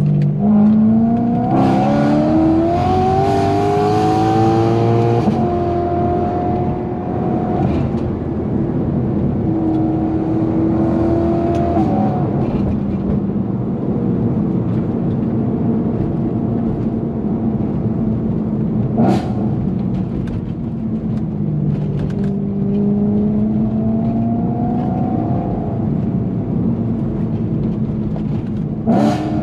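BMW E90 M3's 4.0-litre V8 through a titanium aftermarket exhaust, pulling hard with rising revs in the first few seconds, then holding steady, dropping off and climbing again later. Two brief sharp cracks cut through, one past the middle and one near the end.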